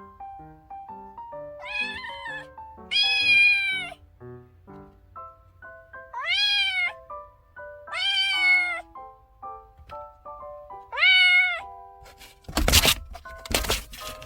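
Kinkalow kitten meowing five times. Each meow bends up and then down in pitch, the first one weaker than the rest. Light background music of short plucked notes plays throughout, and two short noisy thumps come near the end.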